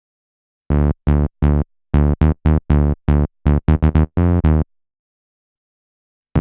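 Behringer TD-3 (TB-303-style bass synth) playing a solo acid bassline: about fifteen short, buzzy notes over four seconds, each with a quickly closing resonant filter. The bassline then stops, and a drum loop comes in just at the very end.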